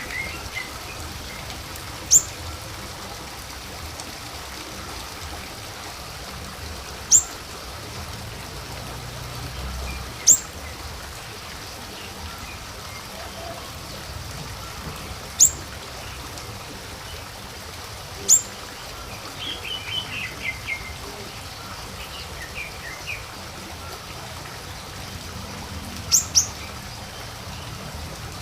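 Siri-siri calls used as a lure sound: sharp, high single notes that drop quickly in pitch, about seven of them several seconds apart, with two in quick succession near the end. A short burst of lower twittering comes about two-thirds through, over a steady hiss like trickling water.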